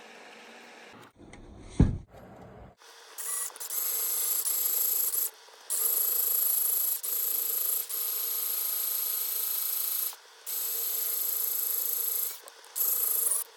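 Power drill boring through the plastic housing of a soap dispenser, running with a steady high whine in stretches of a few seconds with brief stops between them. A single sharp knock comes about two seconds in, before the drilling starts.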